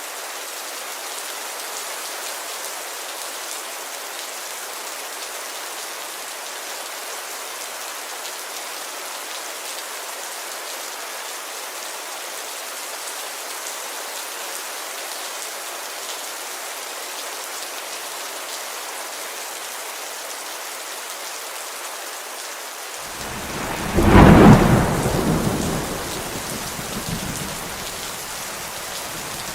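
Steady rain falling on a window, with a thunderclap about three quarters of the way through that rumbles away over a few seconds.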